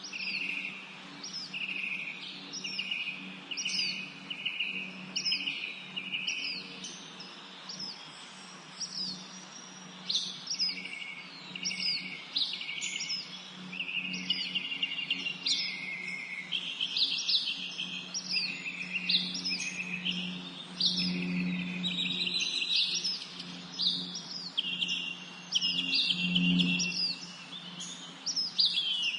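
Spring songbird chorus: many birds chirping and singing at once, short sharp notes that slide downward and repeat rapidly, with a low steady hum underneath.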